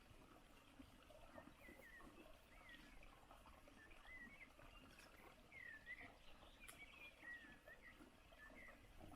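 Faint, distant bird chirping: short curving notes repeated every half second or so, over quiet open-air background.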